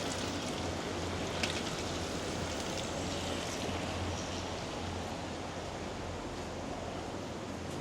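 Steady hiss of rain falling on a city street, with a low rumble underneath and a sharper tick about a second and a half in.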